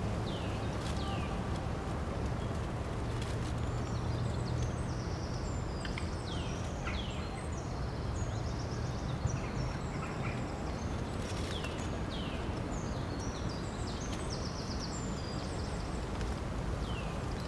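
Wild birds calling and singing: scattered short high chirps and downward-sliding whistled notes, with bursts of quick high notes, over a steady low background rumble.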